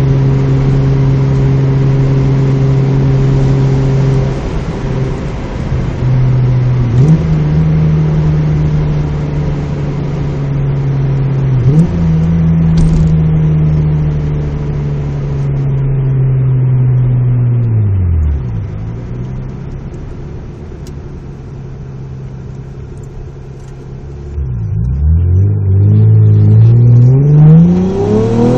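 Mazda MX-3 GS's 1.8-litre V6 with a 2 1/4 in exhaust, test pipe and Magnaflow Street Series muffler, heard inside the cabin while driving. It drones steadily, its pitch jumps up twice, then it drops away to a low, quieter running. Near the end it revs up under acceleration with a rising note.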